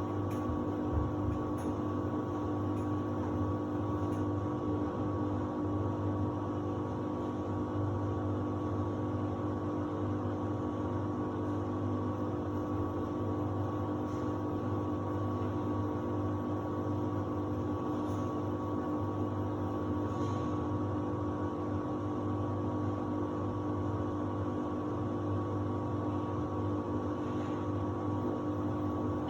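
Samsung WD70T4047CE washer-dryer running mid-programme, before its drying phase: a steady motor hum with a few faint ticks.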